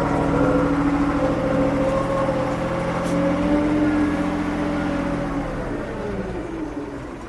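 Diesel engine of a 1975 Ford 550 backhoe running at raised revs, then winding down toward idle near the end.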